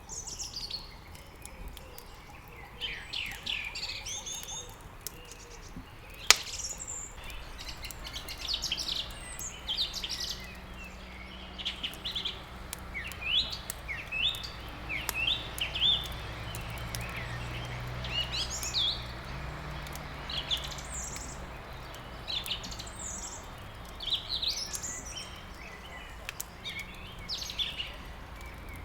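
Songbirds chirping and trilling continuously over a crackling wood fire, with scattered small clicks and one loud pop about six seconds in.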